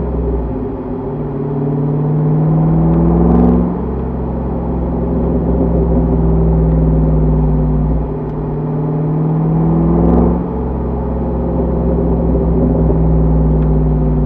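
Borla-exhausted V8 of a 2005 Chevrolet Corvette C6 Z51 pulling through the gears: the exhaust note climbs steadily in pitch, drops at an upshift about four seconds in and again about ten seconds in, then climbs again.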